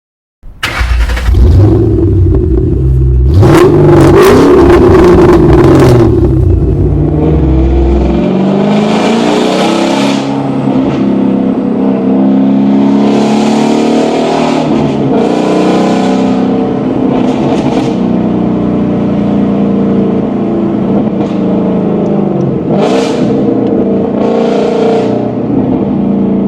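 Ford Mustang Shelby GT500's V8 engine running and revving, its note rising and falling as the car is driven. The heaviest low rumble and revving come in the first eight seconds, after which the engine settles to a steadier note.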